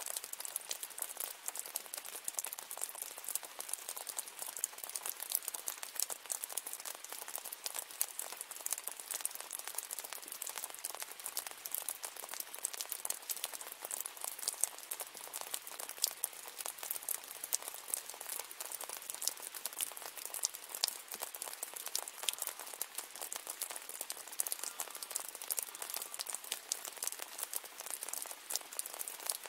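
Steady rain: an even hiss packed with a dense patter of small drop ticks, with no change in intensity.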